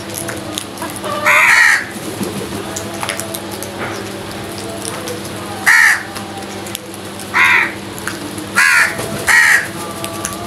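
Crows cawing: five harsh, loud caws, the first slightly longer, then four more spaced through the second half, the last two close together.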